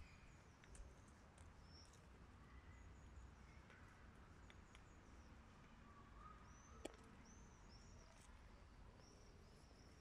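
Near silence with faint birdsong: short, repeated chirping notes, coming more often in the second half, and one sharp click about seven seconds in.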